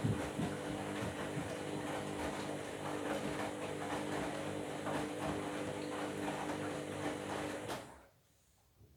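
Washing machine running: a steady motor hum with the drum's irregular knocking and rattling. It stops abruptly about eight seconds in, leaving near silence.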